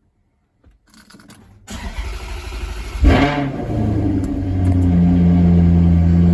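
Maserati Quattroporte Sport GT V8 being started: the starter cranks for about a second and a half, the engine catches with a loud flare about three seconds in, then settles into a steady idle.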